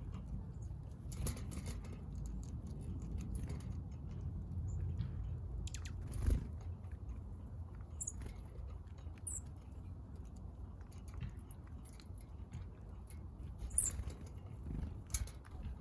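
Small birds pecking and cracking seed close to the microphone: irregular soft taps and crunches, with a few brief high chirps, over a steady low rumble.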